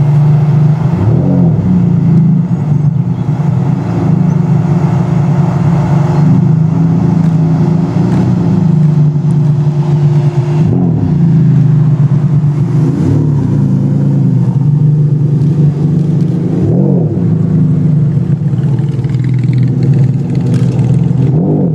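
Supercar engine idling steadily, with about half a dozen short throttle blips spread through the idle, each a quick rise and fall in pitch.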